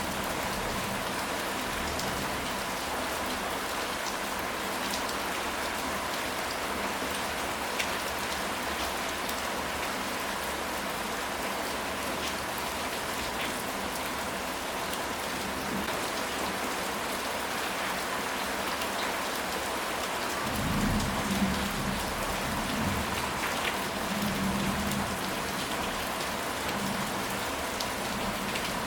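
Steady rain falling, with scattered drops ticking. About twenty seconds in, a low rumble of thunder rolls for several seconds.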